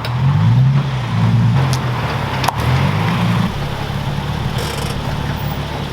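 Nissan 370Z's V6 engine running, its pitch rising briefly twice in the first few seconds before settling to a steady low idle. There is a sharp click about two and a half seconds in.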